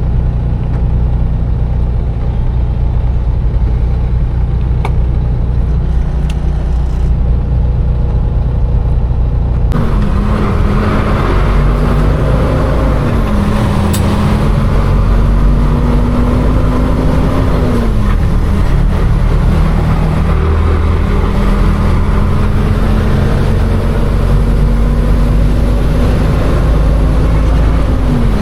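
Container truck's diesel engine running steadily. About ten seconds in, the sound opens up and the engine pitch rises and falls a few times as it pulls and eases off in traffic.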